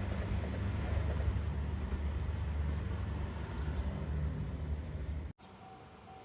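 A train passing close by on the line at a level crossing: a loud, steady rumble with a low drone. It cuts off abruptly about five seconds in, leaving a faint, evenly repeating tone.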